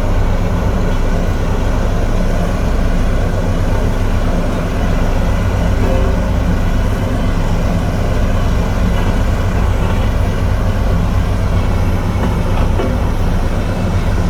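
Komatsu D58E bulldozer's diesel engine running steadily under load, a continuous low rumble.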